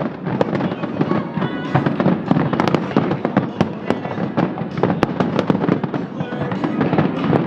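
Fireworks display: dense, rapid bangs and crackling from many shells bursting close together, with no break.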